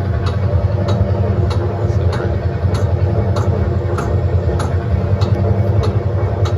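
Tractor engine running steadily with a low drone, while a sharp click repeats evenly, a little under twice a second.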